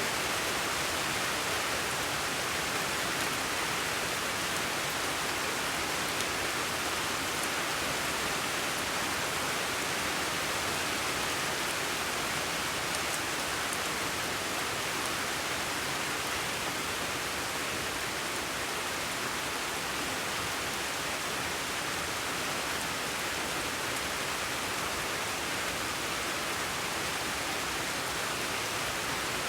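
Steady, unchanging rushing hiss, even and without any separate drops, clicks or tones.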